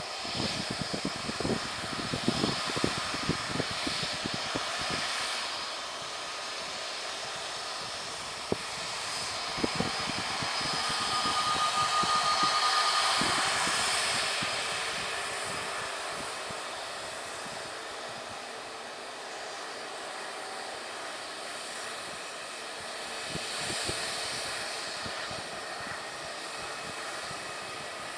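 Jet airliner engines running as the aircraft passes. They swell to their loudest about twelve seconds in, with a high whine, then fade. Irregular low thumps come in the first few seconds.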